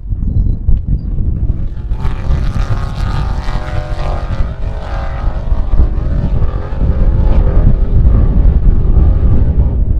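A vehicle engine running with a wavering pitch for a few seconds, heard over heavy wind buffeting the microphone.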